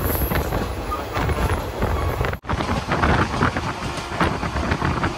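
Passenger train running at speed: wind buffeting the microphone over the rumble and clatter of the wheels on the track, with a momentary break about halfway through.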